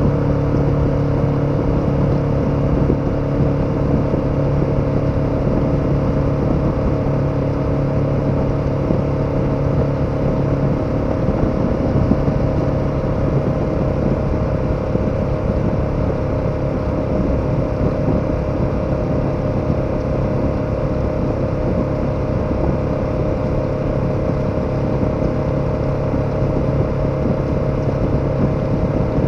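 KTM 1290 Super Adventure's V-twin engine running at a steady cruise over a constant rushing noise. Its pitch wavers briefly about twelve seconds in and then settles back to the same note.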